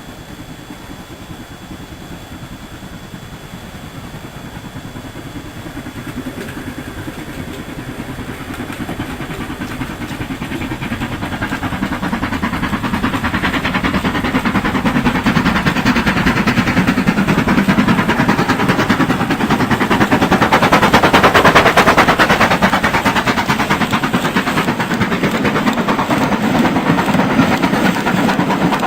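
Model 00-gauge steam locomotive, a Hornby BR Standard 4MT, running along the track with rapid clicking. It grows steadily louder as it approaches, is loudest about 21 seconds in, then eases off a little.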